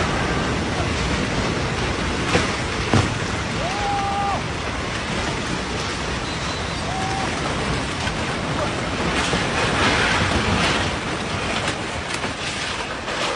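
Floodwater rushing, a loud steady roar of water with wind buffeting the microphone.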